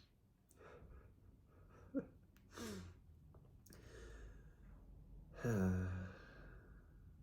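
A man's breathy sighs: a few short exhalations with a falling pitch, then a louder, longer voiced sigh about five and a half seconds in.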